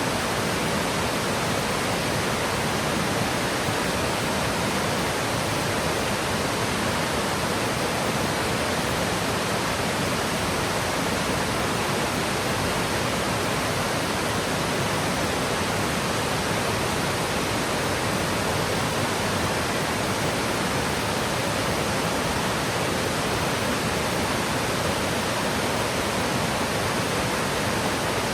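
Waterfall rushing steadily: a constant, full roar of falling water with no change. This is Yudaki, where the water slides down a lava rock face about 70 m high.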